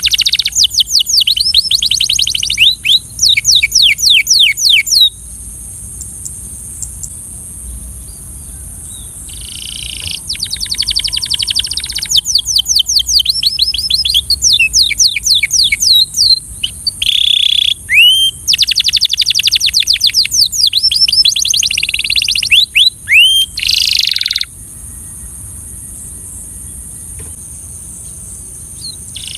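Belgian canary singing: fast rolling trills of rapidly repeated sweeping notes, phrase after phrase, with pauses of a few seconds after about five seconds and again near the end. A steady high hiss runs underneath.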